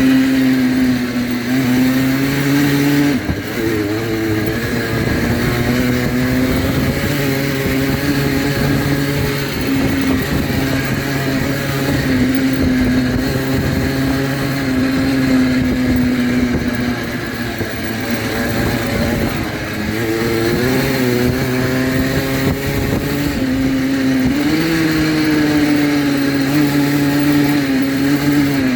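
Dirt bike engine running steadily throughout, its pitch easing up and down with the throttle: it drops about three seconds in and rises again near the end.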